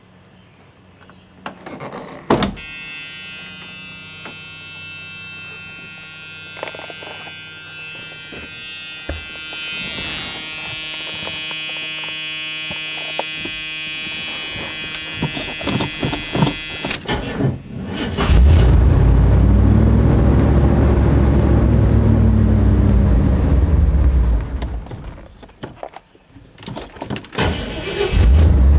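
A click, then a steady buzzing warning tone for about fifteen seconds. Then the Corvette's 350 L82 small-block V8 fires on a cold start after winter storage and revs up and down through its ANSA exhaust. The engine sags almost to nothing about twenty-five seconds in and catches again loudly near the end.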